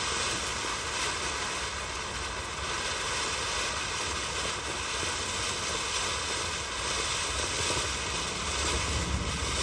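Red Lantern 'Cheerfulness' ground fountain firework burning with a steady hiss of spraying sparks. There is no whistle, although fountains of this name usually whistle.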